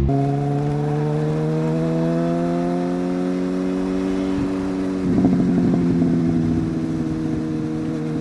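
Superbike's inline-four engine under acceleration, its note rising slowly and steadily. About five seconds in the note dips and turns rougher, then holds a steady pitch.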